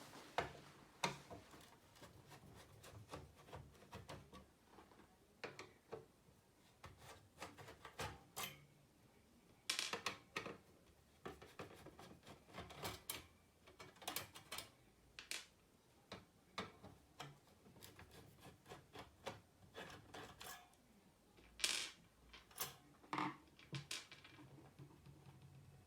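Irregular clicks, taps and clunks of hard plastic and metal parts being handled, with quiet gaps between them and no steady rhythm.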